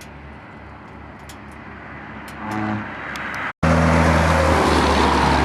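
Car engine and road noise, low and steady at first. After an abrupt cut a little past halfway, it is much louder, with a steady low engine hum.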